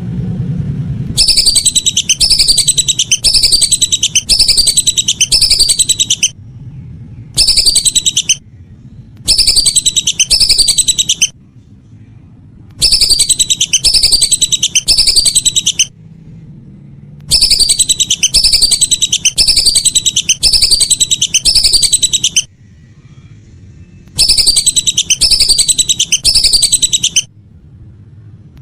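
Calls of the lesser whistling duck (belibis): a rapid series of high, falling whistled notes repeated identically over and over. They come in bursts a few seconds long, each stopping abruptly, with short gaps between, as in a looped bird-lure recording.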